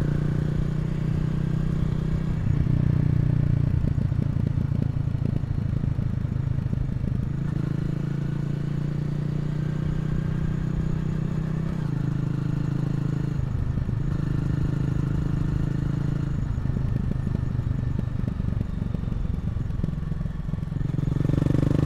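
Honda CRF250L's single-cylinder engine running as the motorcycle is ridden. It has a steady low engine note that dips and picks up again several times.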